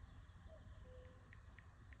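Near silence: a faint low background hum with a few faint short bird chirps and ticks.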